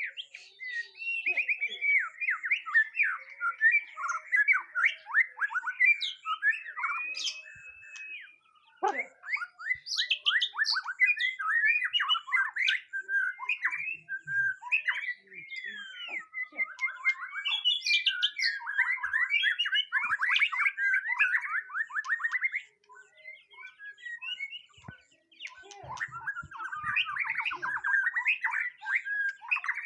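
White-rumped shama singing a fast, varied song of rattling trills, chattering notes and slurred whistles, nearly without a break. It pauses briefly about eight seconds in and again for a couple of seconds past the twenty-two-second mark.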